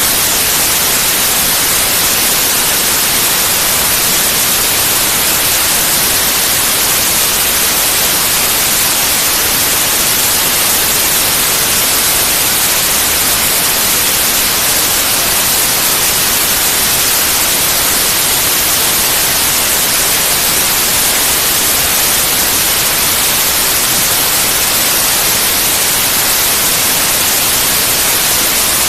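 Steady, loud white noise: an even, unchanging hiss with most of its energy in the high frequencies.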